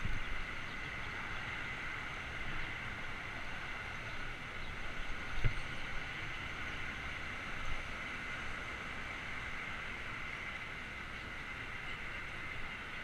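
Steady rush of wind and tyre rumble from a bicycle in motion, picked up by a bike-mounted action camera, with a low bump about five seconds in and a smaller one a couple of seconds later.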